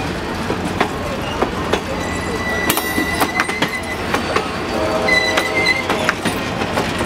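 Tennessee Central passenger train's stainless steel cars rolling past, steel wheels clicking over the rail joints. A high metallic wheel squeal comes in about two and a half seconds in and again near the end.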